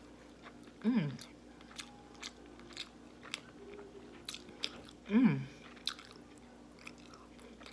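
A person chewing a mouthful of fried chicken sandwich, with small wet mouth clicks, and two short falling "mm" hums of enjoyment, about a second in and again about five seconds in.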